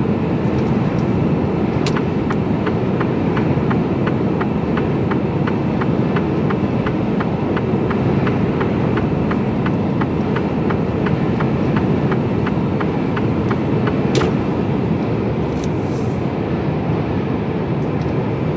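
Mercedes-Benz Actros lorry's engine and road noise heard steadily inside the cab while driving. A turn indicator ticks about two to three times a second from about two seconds in, then stops with a sharp click a few seconds before the end, signalling for the exit.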